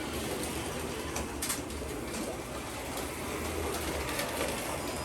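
Carrera Digital 132 1/32 slot car race trucks running on the plastic track: a steady whir of their small electric motors and wheels, with a few sharp clicks.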